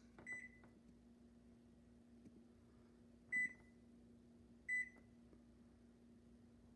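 Samsung microwave's keypad beeping as buttons are pressed to set the time: three short high beeps, the first faint just after the start, the others a little over three and nearly five seconds in. A faint steady low hum runs underneath.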